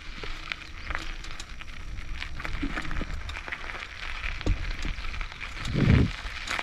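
Bicycle being ridden over a rough forest track: a steady run of small crackles and clicks from the tyres and frame over a low rumble, with a louder low thump about six seconds in.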